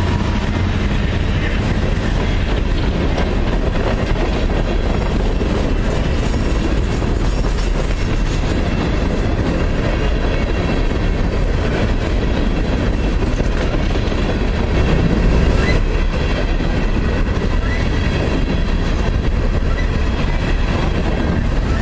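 A train passing close by, its cars rolling steadily along the rails.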